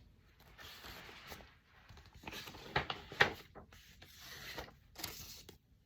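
Paper rustling as a picture book's pages are handled, with two sharper rustles about three seconds in.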